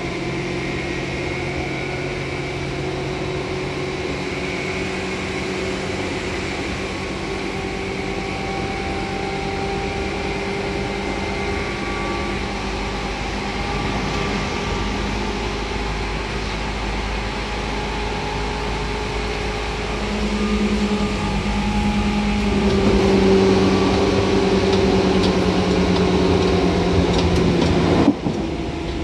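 Seibu 2000 series electric train running, heard from inside the car: a steady hum of motors and wheels on the rails, with several held tones. It grows louder about twenty seconds in, and a single sharp knock comes near the end.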